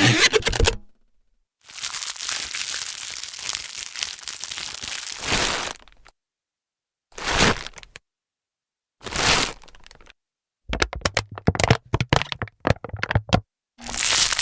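A montage of plastic sound effects: rapid crackling clicks, then a long stretch of crinkling plastic, two short rustles a couple of seconds apart, and a fast run of sharp plastic cracks and snaps, with silent gaps between the pieces.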